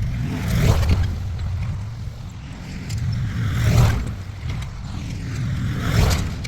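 Engine of a combination backhoe tractor working: a steady low rumble with loud swells about every two to three seconds.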